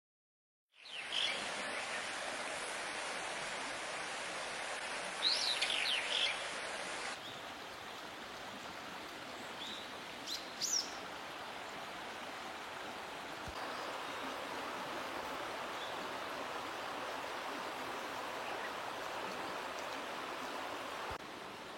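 Steady rushing water, with a short cluster of bird chirps about five seconds in and another brief pair around ten seconds.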